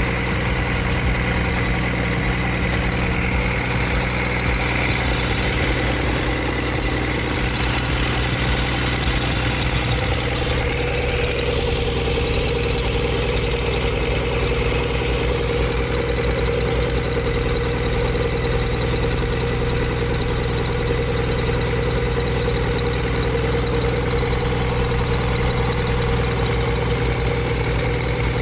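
Freshly overhauled Ashok Leyland H-series 180 HP diesel bus engine idling steadily, with no change in speed.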